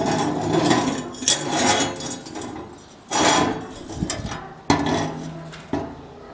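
Metal being knocked and handled: a few sharp clanks, each with a short ringing tail.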